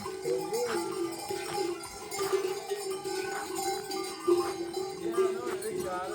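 Bells on a flock of sheep and goats clinking and jingling, with overlapping bleating that wavers in pitch.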